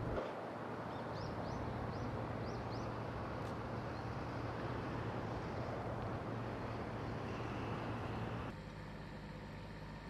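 Steady outdoor background rumble with a low hum. Over it, a quick run of about five short, high rising chirps from a small bird between one and three seconds in. About eight and a half seconds in the background turns quieter and thinner.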